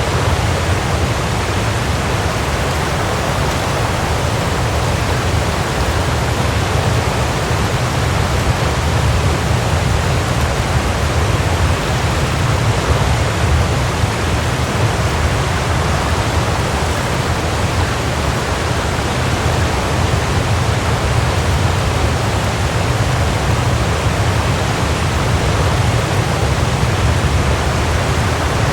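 Waterfall rushing: a steady, unbroken wash of falling water with a deep rumble underneath.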